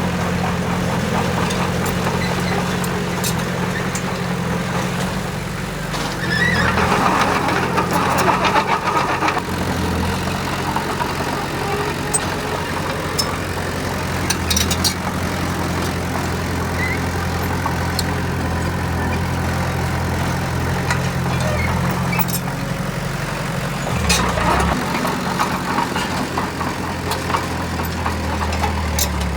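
Diesel engine of heavy earthmoving machinery running steadily, with scattered metallic clanks and two louder, rougher stretches, one about seven to nine seconds in and a shorter one near twenty-four seconds.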